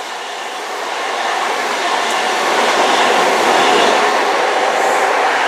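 High Speed Train (InterCity 125) with Class 43 diesel power cars passing through at speed: a steady rush of engine and wheel-on-rail noise that grows louder over the first three seconds and stays loud.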